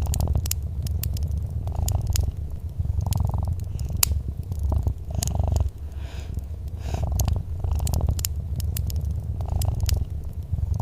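Domestic cat purring, a low rumble that rises and falls with each breath, over the scattered sharp pops and crackles of a wood fire.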